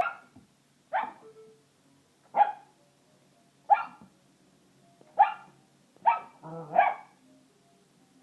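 A Newfoundland puppy barking, seven short, sharp barks roughly a second apart, the last two close together. The barks are aimed at a toy that makes monkey noises.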